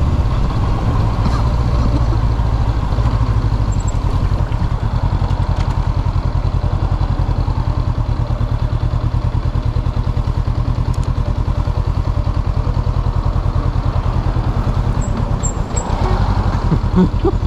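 Honda CB500F's parallel-twin engine running steadily, its exhaust pulsing evenly at low engine speed.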